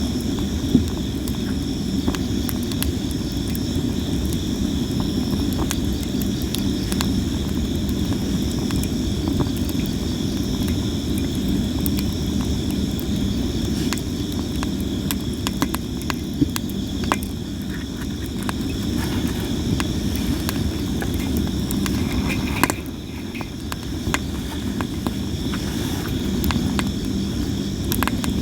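Campfire of sawara cypress wood crackling and popping constantly over a low steady rumble of the flames, with a few louder pops, one about a second in. Insects chirp steadily in the background.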